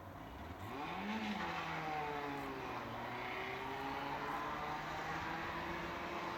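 SNCF BB 26000 electric locomotive approaching with a freight train. Its motor whine rises in pitch about half a second in and then holds steady over a growing rumble.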